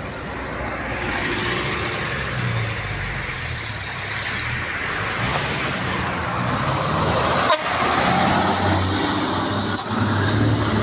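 Truck diesel engine running under load as it pulls up a steep hill, with horn toots and two sharp knocks, the first about three quarters of the way in and the second near the end.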